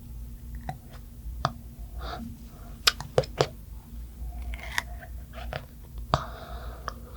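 Close-miked chewing and biting of soft food, with scattered wet clicks and a quick run of loud sharp crunches about three seconds in.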